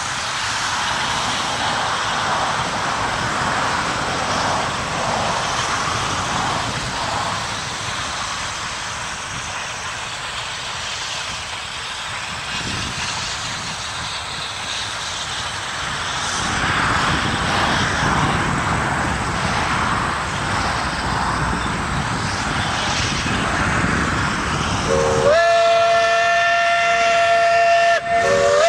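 Narrow-gauge steam train running, a steady rush of rail and running noise. About 25 seconds in, the locomotive's steam whistle blows: several tones sounding together, broken briefly and then resumed.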